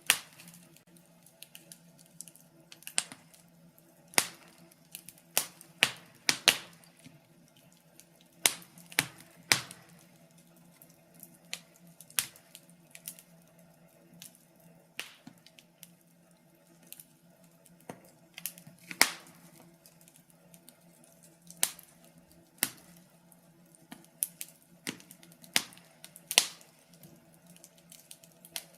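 Wood fire crackling in a fireplace: irregular sharp pops and snaps, a few every second or two, some much louder than others, over a faint steady low hum.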